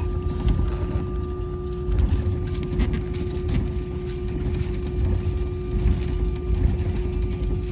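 Airliner jet engines heard from inside the cabin: a heavy low rumble under a steady whine, with a few faint knocks.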